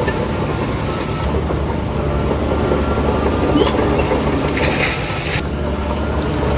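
Heavy diesel earthmoving machinery running steadily under load, with a short hiss a little under five seconds in.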